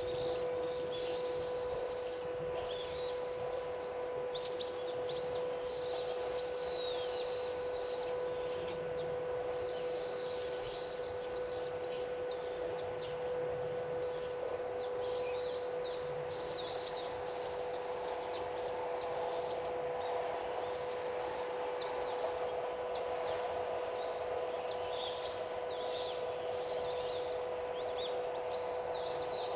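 Small birds chirping and calling repeatedly, busier in the second half, over a steady pitched hum.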